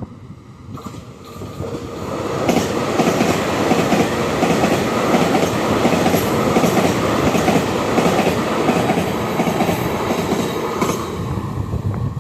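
A Taiwan Railways EMU3000 'new' Tze-Chiang express passes through the station at speed. A rush of wheel and air noise builds over the first couple of seconds and holds loud, with wheels clattering rapidly over the rails. It eases a little near the end.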